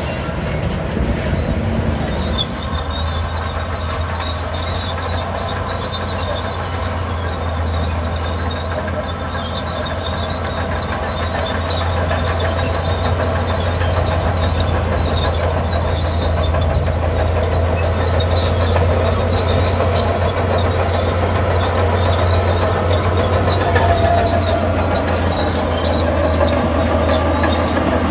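Bulldozer's diesel engine running steadily with a deep drone, mixed with faint high metallic squeaks, growing a little louder about halfway through.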